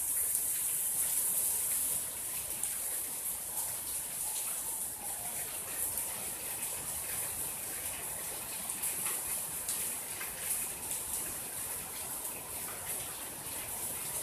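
Steady rain falling, a dense hiss with many small sharp drop ticks scattered through it; it drops slightly in level about two seconds in.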